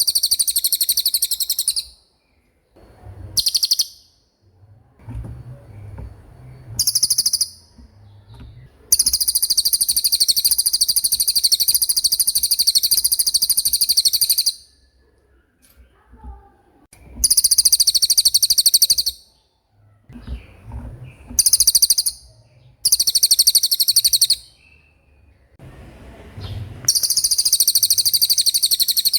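A cililin songbird singing in full voice: very high-pitched, rapid rolling trills in repeated bursts, the longest lasting about five seconds near the middle, with short pauses between them.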